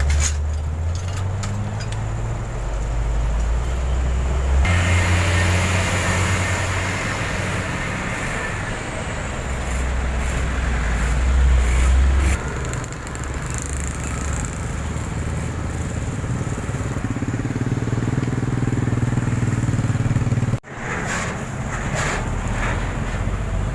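Road traffic: engines of motorcycles and other vehicles running and passing, a steady rumble with street noise, changing abruptly three times.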